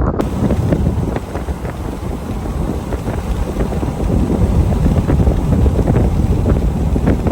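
Strong storm wind buffeting the microphone: a loud, steady low rush with constant crackling gusts.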